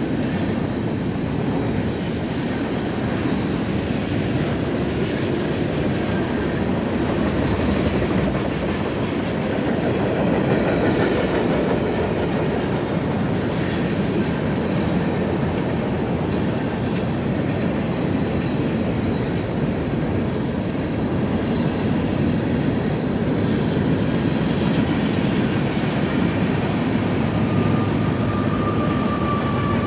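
Freight train rolling past, its steel wheels running steadily on the rails, with a thin wheel squeal coming in near the end.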